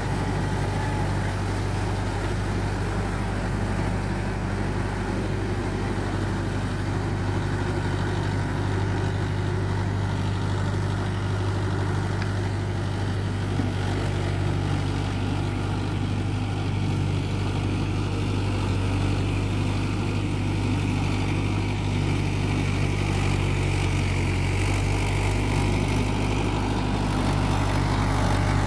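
Mahindra Yuvo Tech+ 585 tractor's diesel engine running steadily with a constant low drone.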